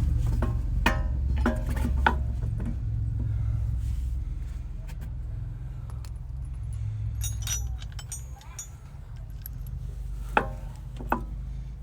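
Metal tools and parts clinking and knocking a few times, with two sharper knocks near the end, over a steady low hum.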